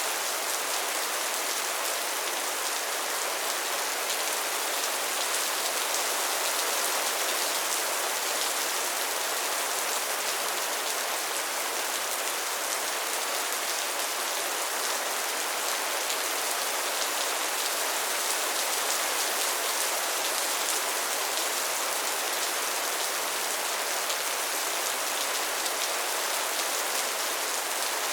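Steady rainfall, drops pattering on a surface with a dense hiss of many fine drop ticks.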